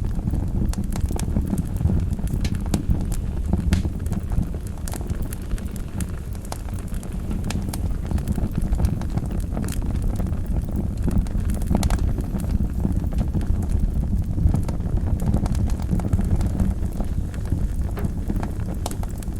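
Wood fire burning in a fireplace: a steady low rumble of flames with many sharp pops and crackles scattered throughout.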